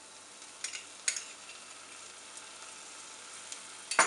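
Grated onion sizzling softly and steadily in hot oil in a pan as ginger paste is added. A couple of light taps come about a second in, and a sharper knock of a utensil on the pan comes near the end.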